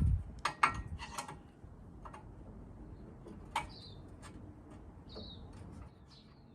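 Sharp clanks and knocks of hand tools on metal, several in the first second or so and one more about three and a half seconds in. A bird chirps three times in the second half.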